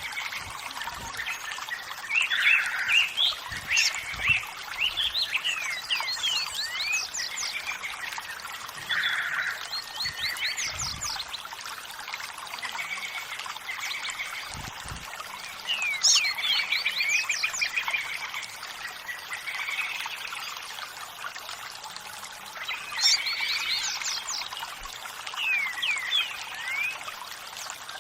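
Many birds chirping and singing over a steady sound of running water, their quick whistled notes sweeping up and down in clusters with short lulls between.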